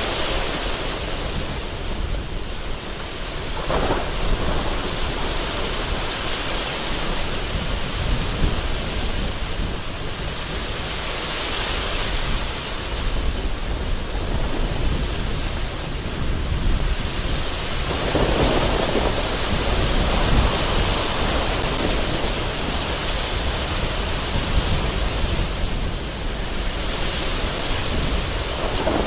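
Heavy rain beating against a window in gusty wind, swelling and easing every few seconds, over a steady deep rumble of rolling thunder.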